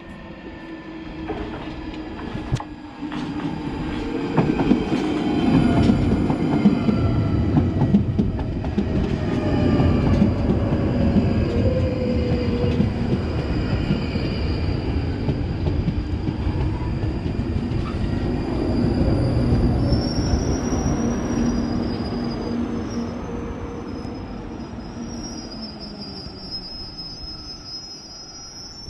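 A London Underground 1995 Tube Stock train running into the platform, its rumble swelling and fading with a whine that falls in pitch as it slows. A high-pitched squeal comes in during the last several seconds as it comes to a stop.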